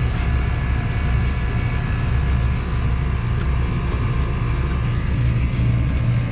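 Outdoor air-conditioning condensing unit running: a steady low hum with faint, steady high-pitched tones above it. The unit's condenser fan motor has loose bearings.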